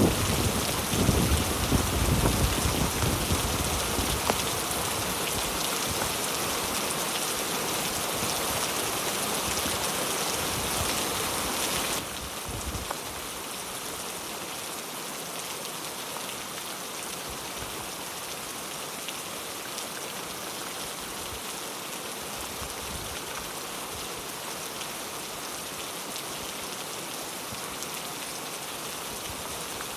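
Heavy rain falling steadily. A low rumble dies away over the first few seconds, and about twelve seconds in the rain abruptly drops to a quieter, steady patter.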